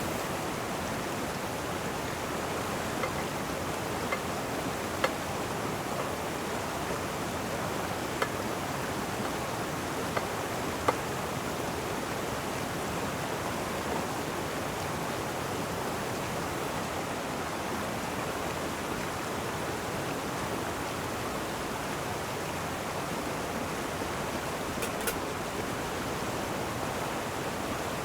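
Steady rush of a river running close by, an even wash of water noise. A few small, sharp clicks sound over it in the first dozen seconds and once more near the end.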